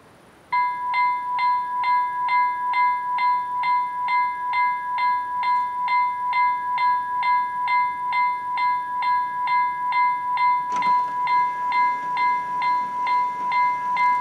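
Level crossing warning bell starting up suddenly and ringing evenly at about two strokes a second over a steady held tone. A single short click cuts through the ringing about ten seconds in.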